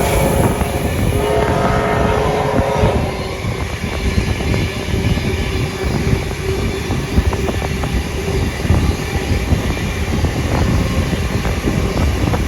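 Steam-hauled passenger train running along the rails, heard from on board as a loud, steady rumble. In the first few seconds a wheel squeal rises over it, then settles to one steady tone.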